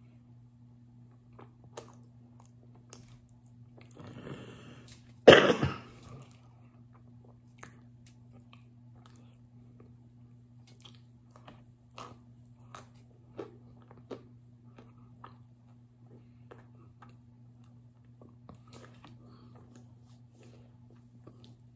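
Chewing crunchy chunks of baked cornstarch brick, with scattered small crunches. A single loud cough breaks in about five seconds in.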